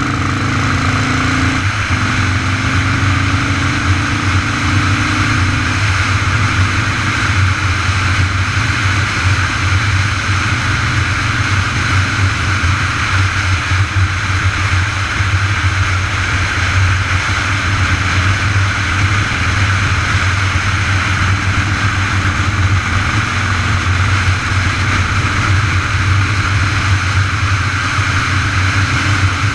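Steady riding noise on the road: a continuous low rumble with a rushing hiss from wind and travel, unchanging throughout, with a brief gliding tone in the first couple of seconds.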